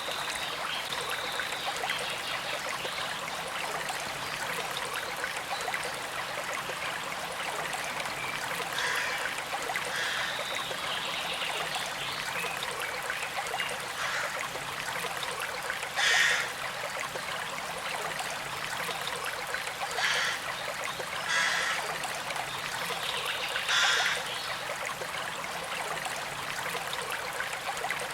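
Small creek flowing and trickling steadily, with four brief louder gurgles in the second half.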